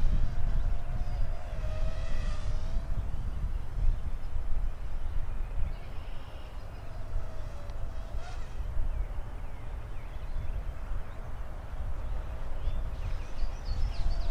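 Parrot Mambo mini quadcopter's small propeller motors whining in flight, the pitch wavering up and down as it manoeuvres, with a brighter buzzing swell now and then. Wind rumbles on the microphone underneath.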